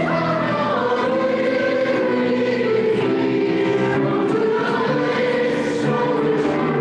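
Many voices singing together in church, holding long notes that move from pitch to pitch.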